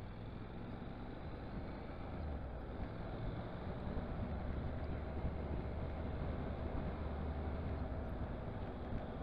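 Honda NC750S motorcycle's parallel-twin engine running as the bike rides along, with wind and road noise. It grows louder about two to three seconds in.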